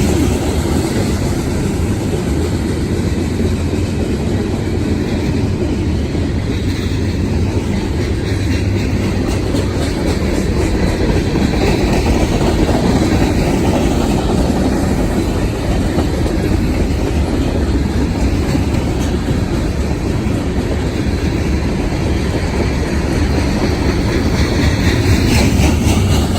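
Freight train cars rolling past: a steady, loud rumble of steel wheels on rail with clickety-clack over the rail joints.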